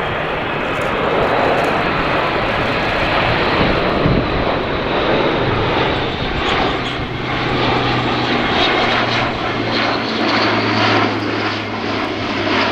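Airbus A400M's four Europrop TP400 turboprop engines running loud in display flight. About halfway through, a steady low propeller hum rises out of the broad engine noise.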